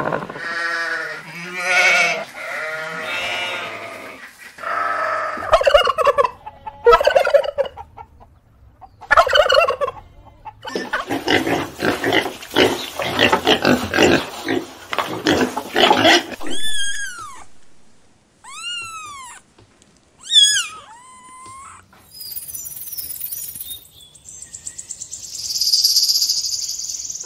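A string of farm animal calls, mostly poultry calling and clucking, followed by a few high, arching chirps in quick succession.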